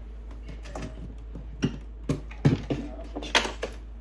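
Irregular light clicks and knocks of small objects being handled, a few of them sharper, over a steady low hum.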